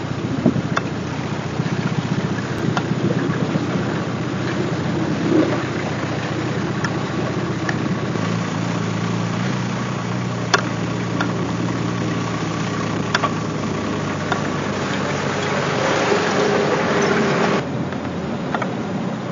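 A car's engine running as it climbs a steep, rough hillside trial section, heard at a distance. A steady engine note comes in about eight seconds in and drops away near the end, with a few sharp ticks along the way.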